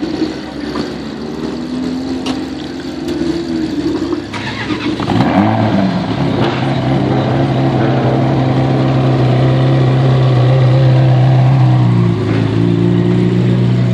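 Ferrari V8 engines running at idle. About five seconds in, a second V8 starts up and settles into a steady fast idle, and its note shifts near the end.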